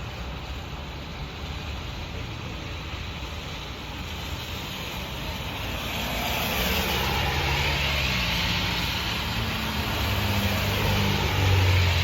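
A motor vehicle drawing near: engine and road noise growing louder over the second half, loudest near the end.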